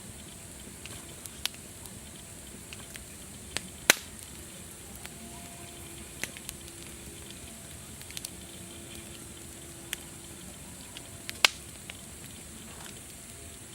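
Campfire crackling over a steady hiss, with scattered snaps and two loud pops, about four seconds in and near the end.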